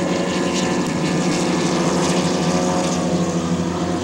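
SNJ (T-6 Texan) aerobatic plane's Pratt & Whitney R-1340 Wasp radial engine and propeller running steadily overhead, an even pitched drone.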